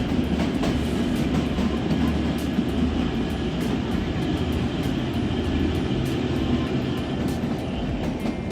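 Kalka–Shimla narrow-gauge toy train running through a long tunnel: a steady low rumble of wheels and carriage, with faint irregular clicks and rattles.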